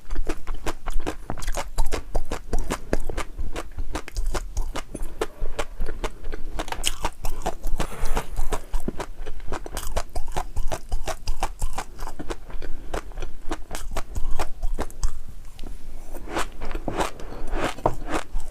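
Close-miked chewing of crunchy food: rapid, crisp crunches one after another, easing briefly near the end before starting again.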